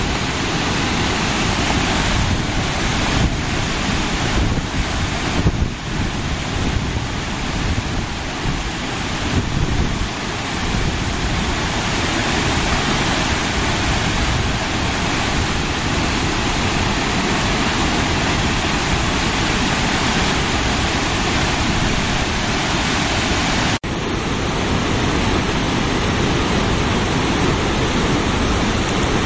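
The Great Falls of the Passaic River in flood after a hurricane: a loud, steady rush of falling water. About three-quarters through, the sound cuts briefly and comes back slightly changed.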